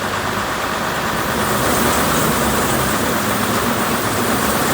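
Truck engine running steadily, getting a little louder about a second and a half in.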